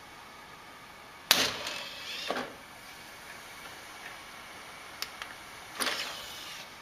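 A sudden knock and rattle about a second in, then light clicks and a short mechanical whir near the end as a desktop computer's optical drive tray is pushed open by its button.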